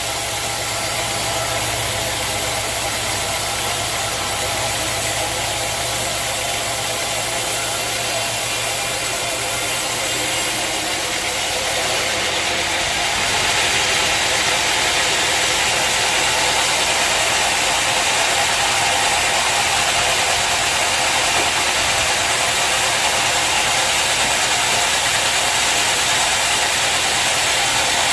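Sawmill machinery running steadily. About twelve seconds in the sound grows brighter and a little louder and stays so.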